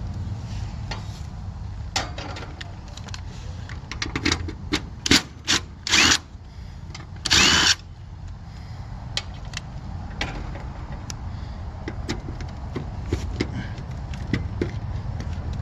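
A cordless drill-driver runs in a few short bursts, the longest about half a second, amid light clicks and rattles of tools and parts, over a steady low hum.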